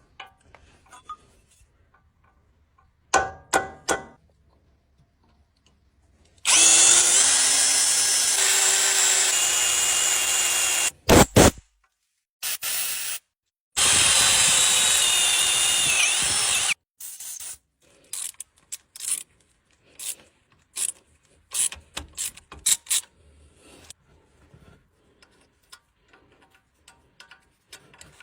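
A power tool running in two long runs of several seconds, with a short burst between them, during metal work on a tie rod end. Before and after, scattered clicks and knocks of tool handling.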